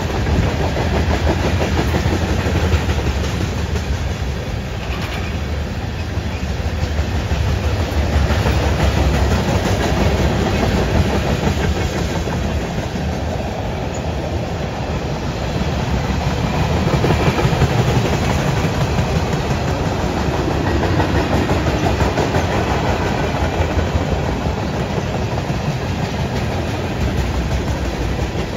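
Freight cars (tank cars and an autorack) rolling past: a steady rumble of steel wheels on rail with a rapid clickety-clack.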